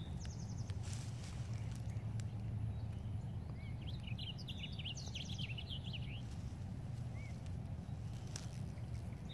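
Wild songbirds calling: a quick run of high chips less than a second in, then a busier jumble of chirps and trills around the middle, with a few short single whistles, over a steady low rumble.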